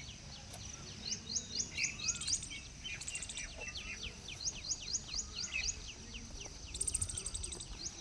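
Birds chirping: runs of short, high, falling notes repeated several times a second, over a low background rumble.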